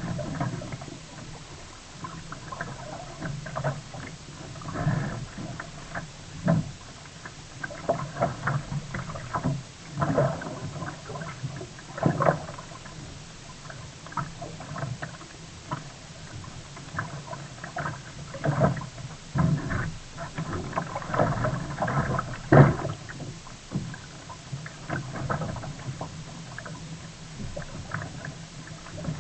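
Sea kayak being paddled: irregular splashes of the paddle and water sloshing against the hull, a stroke every second or two, a few sharper than the rest.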